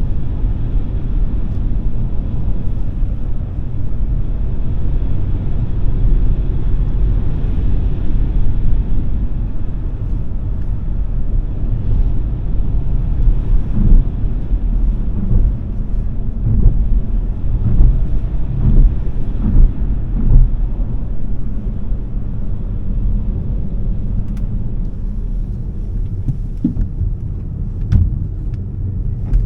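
Smart #3 electric car under way: steady low rumble of tyres and road, with a run of short thumps midway and a few sharp knocks near the end.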